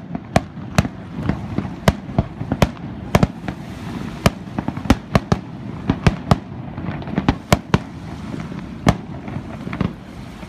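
Aerial firework shells from a professional display bursting in quick, irregular succession: sharp bangs about two to three a second over a steady low rumble.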